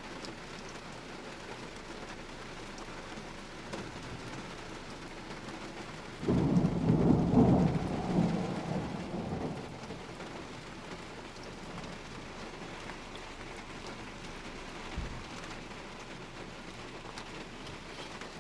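Heavy rain falling steadily, with a loud clap of thunder about six seconds in that rumbles for a few seconds and fades away.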